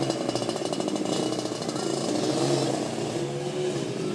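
Motorbike engine running and revving, its pitch rising and falling with the throttle.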